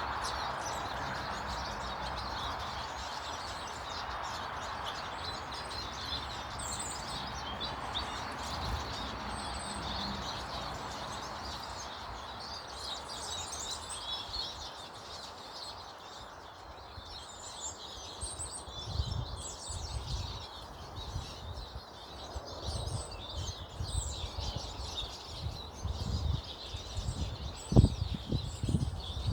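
Small garden birds chirping and twittering throughout, over a rushing background noise that fades away over the first half. In the second half there are irregular low bumps and rumbles, the loudest a sharp one near the end.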